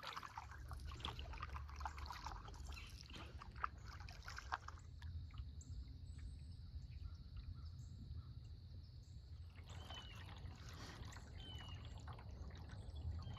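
A paddle dipping and pulling through water, with drips and trickles off the blade, for the first few seconds before the boat glides more quietly. A few short, falling bird chirps come near the end, over a low steady rumble.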